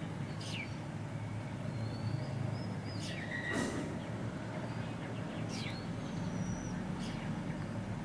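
Birds calling with short, high whistles that fall steeply in pitch, every two or three seconds, over a steady low background hum.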